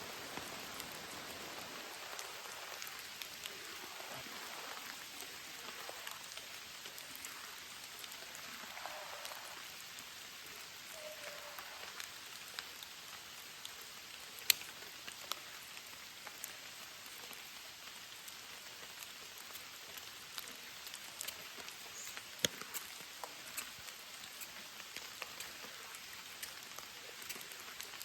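Steady rain falling, with many single drops tapping close by and two sharper, louder taps partway through.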